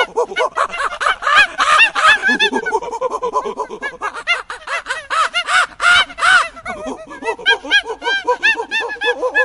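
A flock of birds calling together: a dense, loud chatter of many short, arched calls overlapping without a break.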